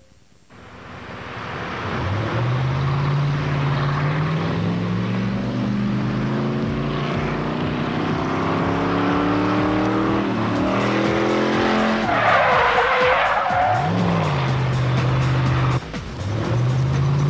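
A Chevrolet Corvette's V8 accelerating hard while the car is driven fast in reverse, its pitch climbing steadily for about ten seconds. About twelve seconds in the tires squeal in a skid as the car spins, and the engine drops and surges again. After a brief break, another engine speeds up.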